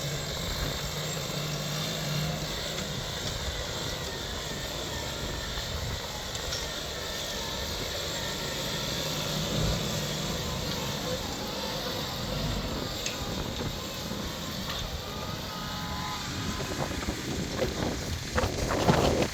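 Deutz-Fahr 5125G tractor's diesel engine running steadily, with a louder burst of sound near the end.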